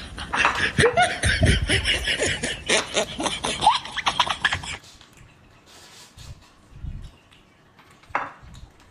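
Laughter over rapid clicking sounds, cutting off abruptly about five seconds in, followed by quieter scattered short clicks and a brief louder burst near the end.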